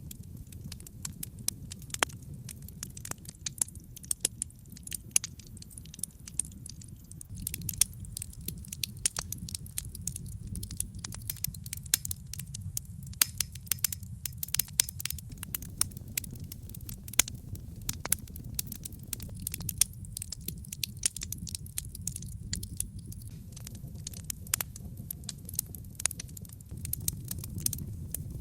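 Wood fire of burning logs in a fireplace: frequent, irregular sharp crackles and pops over a steady low rumble of the flames.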